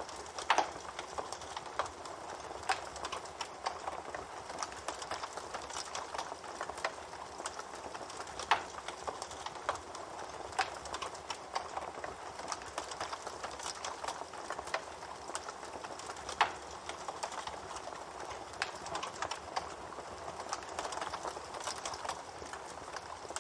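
Campfire burning: a steady hiss with frequent sharp crackles and pops of burning wood. A few louder pops stand out, about half a second in, about eight seconds in and about sixteen seconds in.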